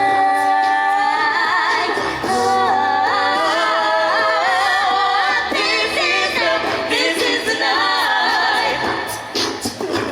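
A cappella choir of mixed voices singing in close harmony, holding chords and gliding between them without clear words.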